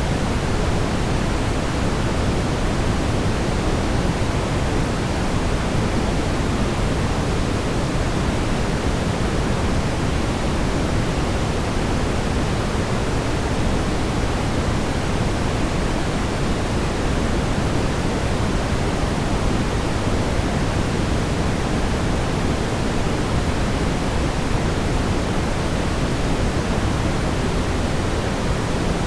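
Brown noise: a steady, deep rumbling hiss, strongest in the low end and falling off toward the highs, unchanging throughout.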